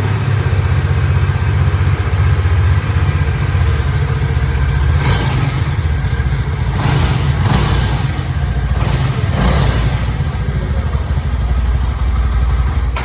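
Yezdi motorcycle's 334 cc single-cylinder engine running steadily through its exhaust, with a few brief louder bursts around the middle.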